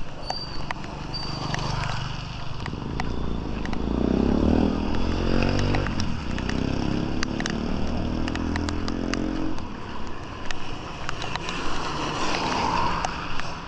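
A motorcycle engine passes close by. It swells from about three seconds in, is loudest around four to six seconds, and fades away by about ten seconds.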